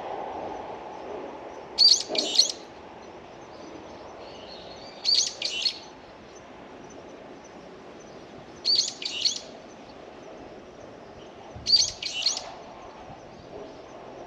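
A songbird calling repeatedly: four short bursts of two or three sharp, high chirps, one about every three and a half seconds, over a faint steady outdoor hiss.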